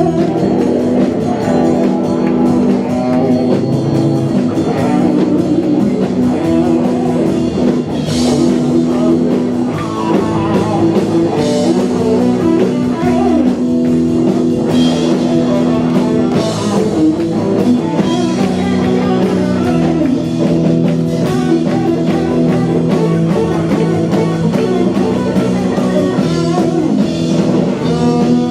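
Live band playing an instrumental rock-style passage: guitar over a drum kit with a steady beat.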